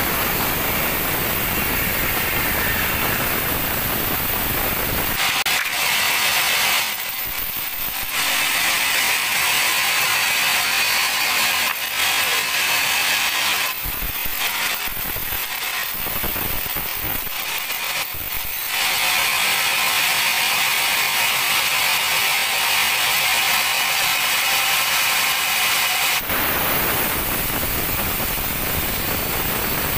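Sawmill band saw running on a teak log, with a steady high-pitched cutting noise through most of the middle that dips briefly a few times, then returns to a fuller, lower machine noise near the end.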